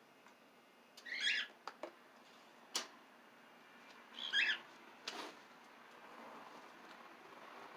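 A pet bird gives two short chirping calls, about a second in and again about three seconds later, with a few sharp clicks in between.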